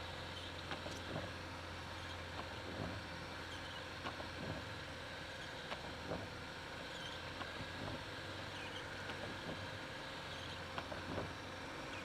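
Lada Niva (VAZ-2121) engine running steadily, heard from inside the cabin while driving over snow, with irregular clicks and knocks from the body jolting over the rough ground.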